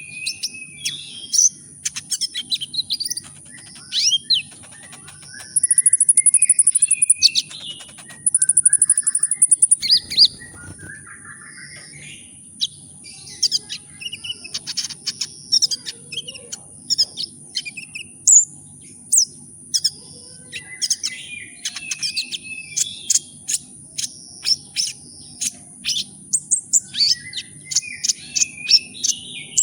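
Kolibri ninja sunbird singing a fast run of high, sharp chirps and sweeping notes, twice breaking into a dense buzzy trill about six and eight seconds in. A faint steady high whine and a low hum sit under it.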